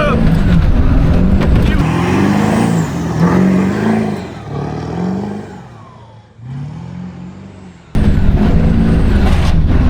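Pickup truck engine revving up and down over and over, about once a second, as it is driven hard. It fades in the middle, then comes back suddenly loud near the end.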